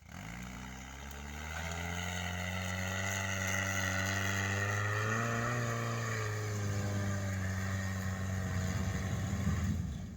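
Toyota 1NZ-FE 1.5-litre four-cylinder petrol engine of a tracked-free all-terrain vehicle running steadily under load, getting louder over the first two seconds, with a brief rise in pitch around the middle. It starts and stops abruptly.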